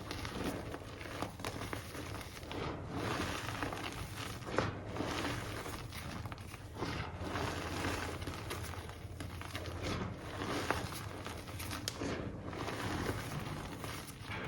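Hands crumbling reformed gym chalk and working the loose powder: a continuous grainy crunching and rustling with small sharp crackles, and a couple of louder snaps.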